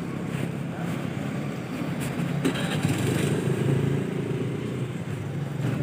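A motorcycle engine running steadily, briefly louder about two and a half seconds in.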